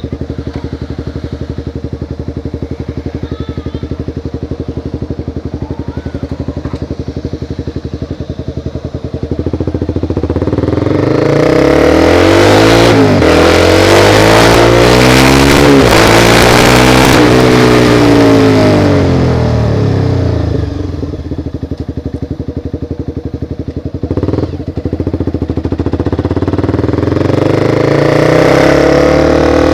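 Honda CBR motorcycle engine idling steadily, then pulling away and accelerating through the gears, its pitch rising and dropping at each shift. It eases off about twenty seconds in, then accelerates again near the end.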